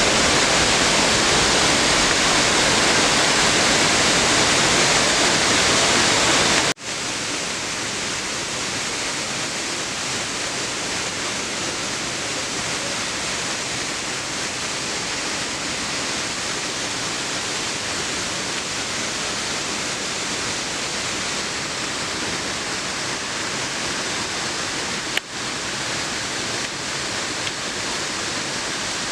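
Waterfall rushing with a steady, even roar of falling water. It drops suddenly to a lower level about seven seconds in, with a brief break again near the end.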